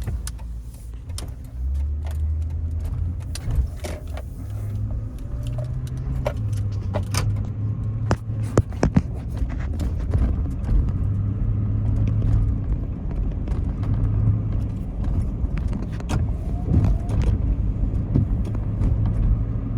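A 2007 Toyota Tundra driving, heard from inside the cab: a steady engine and road drone whose low note shifts in steps several times, with scattered light clicks and rattles. There is no grinding or droning from the front axle, now that the needle bearing has been replaced by a bushing and a new CV axle is fitted.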